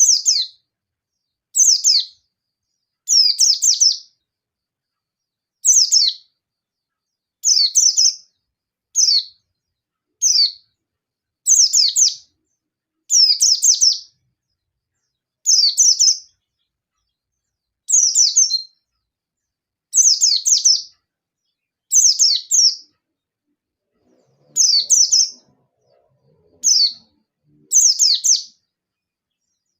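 Yellow-breasted white-eye (pleci dada kuning) singing its aggressive 'ngalas' song in short, fast twittering phrases, each sliding down in pitch, repeated every couple of seconds. This is the challenge call used to bring in and provoke rival white-eyes.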